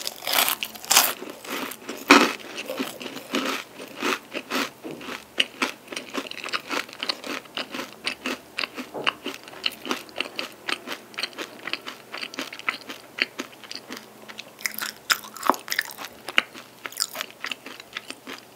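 Close-miked crunching bites and chewing of a flaky chocolate-and-almond pastry stick (an almond bonbon stick). There is a loud bite about two seconds in, followed by a long run of quick crisp crunches as the flaky layers are chewed.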